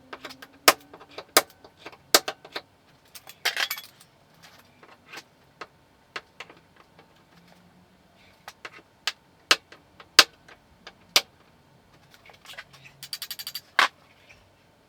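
Metal tools knocking and clinking on a car's sheet-metal body panel during dent finishing: irregular sharp taps, a short scrape about three and a half seconds in, and a quick run of rapid taps near the end.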